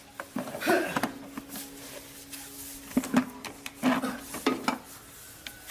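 Tools and small metal parts being handled on a workbench: irregular light knocks, taps and clinks, about a dozen over a few seconds, with a faint steady hum in the first half.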